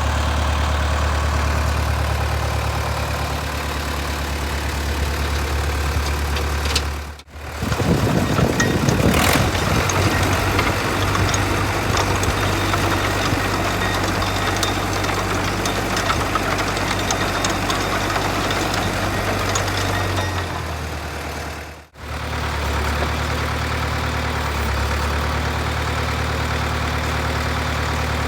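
Ditch Witch 7610 trencher tractor's engine running steadily at idle. The sound cuts out briefly twice, and after the first cut the engine runs louder for a few seconds.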